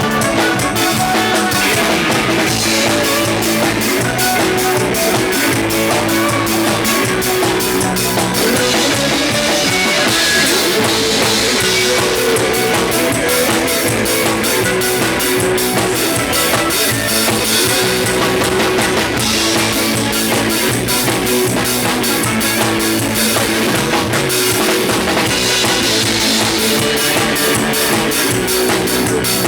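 Isan band music played on drum kit, electric guitar and electric bass, with a steady, driving drum beat.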